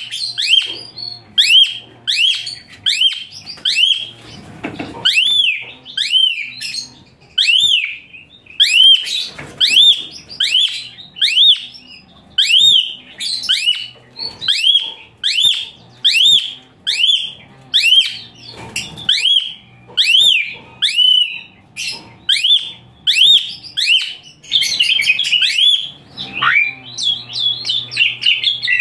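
Asian pied starling (jalak suren) singing a long series of shrill, high-pitched notes, each rising then falling, about two a second. Near the end the notes crowd into a denser, jumbled stretch of calls.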